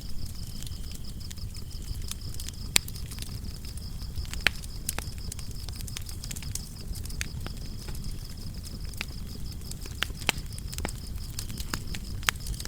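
Wood fire crackling, with a handful of sharp pops over a low steady rumble of burning, while crickets chirp in a steady high note throughout.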